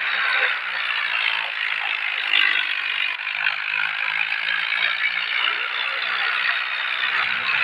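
Ford tractor with a rotavator running, giving a steady dense mechanical clatter with a low, pulsing hum underneath.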